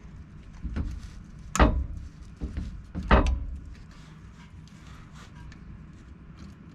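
A few sharp knocks, two loud ones about a second and a half apart with lighter ones around them, as a new U-joint retaining clip is worked into the groove of its bearing cap.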